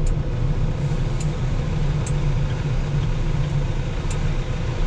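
Vehicle engine running steadily with a low rumble while it pulls a car stuck in snow on a tow strap, with a few faint clicks.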